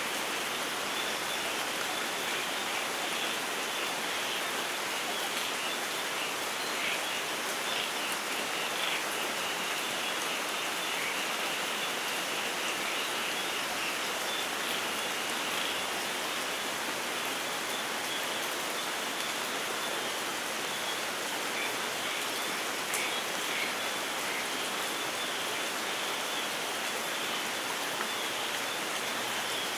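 Steady rain falling, an even hiss with scattered individual drops audible through it; no thunder.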